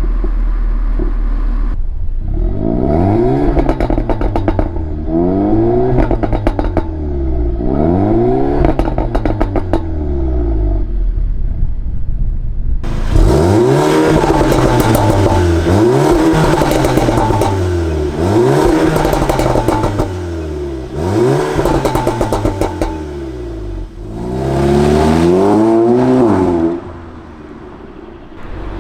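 Audi A3 2.0T turbo four-cylinder through an APR downpipe and non-resonated Milltek catback, revving up and falling back again and again. It pops and crackles on the overrun as the revs drop, from the aggressive pops-and-bangs tune. It runs much quieter near the end.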